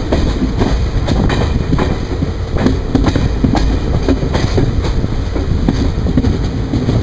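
Passenger train coaches running on the track: a steady heavy rumble of wheels on rail, with a clickety-clack of wheels passing over rail joints about two to three times a second, heard close up from the coach.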